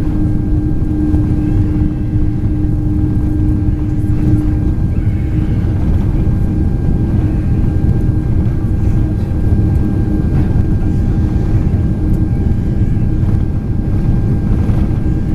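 Airliner cabin noise aboard a Boeing 767-400ER: a steady rumble of engines and airflow with a steady hum that weakens about five seconds in.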